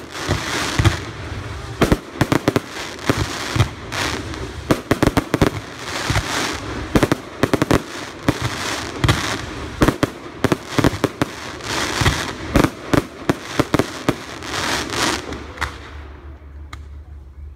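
Fireworks display at full intensity: rapid, overlapping bangs of shells bursting, with crackling in between, easing off to a few scattered pops about a second before the end.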